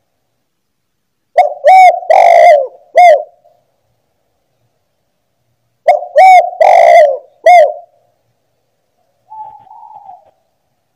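Spotted dove (tekukur) cooing: two loud phrases a few seconds apart, each of about four notes with a longer, drawn-out coo third. A faint short sound follows near the end.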